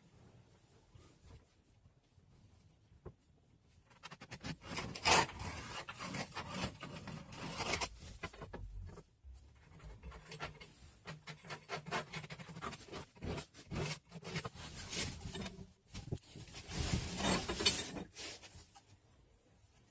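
Irregular scraping and rubbing on XPS foam board. It starts about four seconds in, comes in uneven strokes with louder peaks, and stops near the end.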